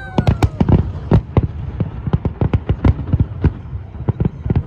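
Fireworks display: shells bursting in a dense, irregular volley of bangs, several a second, over a continuous low rumble.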